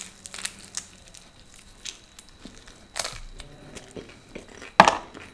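Close-miked eating sounds: crisp food crunched and chewed, with a sharp crunch about three seconds in and a louder one near the end.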